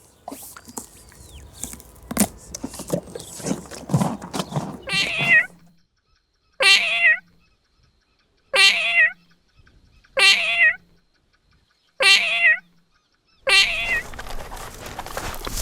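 Five short, wavering animal calls in a row, about two seconds apart and each the same, with silence between them. Before the calls comes a run of clicks and knocks, and near the end a steady rustling noise comes in.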